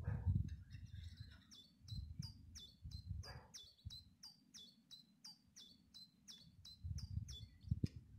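A songbird repeating one short, high, downslurred note about three times a second for some six seconds, starting about a second and a half in. Gusts of low rumble come and go underneath.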